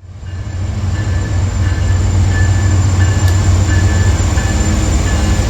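Train running by loud and steady with a heavy low rumble, and a ringing tone repeating about three times every two seconds over it.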